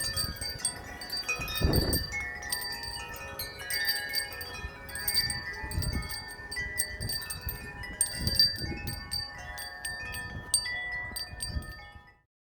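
Many wind chimes ringing at once in strong gusting wind, a dense, continuous wash of overlapping metallic tones, with low rumbles of wind gusts now and then. The sound cuts off abruptly near the end.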